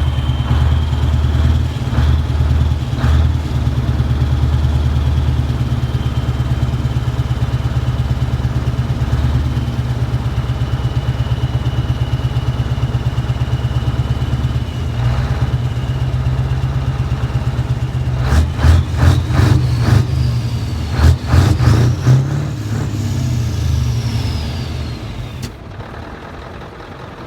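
Large truck diesel engine idling with a deep steady throb, then blipped hard several times, with a high whistle rising and falling as the revs die away before the sound drops off near the end.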